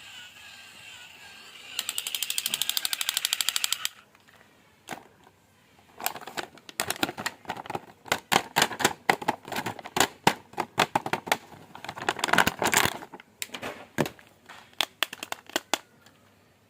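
Hands handling toy packaging: a rapid, even run of clicks for about two seconds, then many irregular plastic clicks and crackles.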